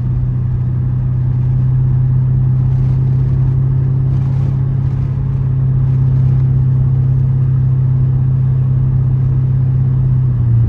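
Straight-piped 6.4-litre Hemi V8 exhaust of a 2012 Dodge Charger SRT8 cruising at steady revs, heard from the driver's seat: a loud, even, low drone that holds one pitch.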